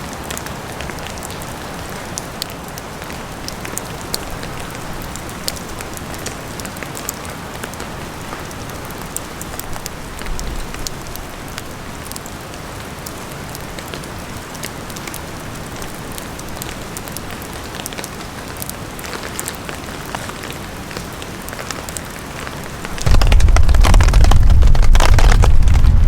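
Steady rain with many small drop ticks. About 23 seconds in, a strong gust of wind hits the microphone and turns everything into a loud, low buffeting rumble.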